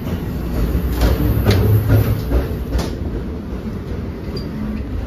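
Inside a moving NJ Transit Multilevel coach: the steady low rumble of the train running, with a few sharp knocks between about one and three seconds in.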